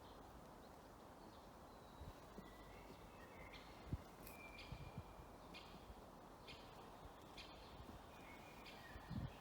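Faint birdsong: scattered short chirps and brief whistled notes from birds, over a quiet steady background hiss, with a couple of soft low thumps.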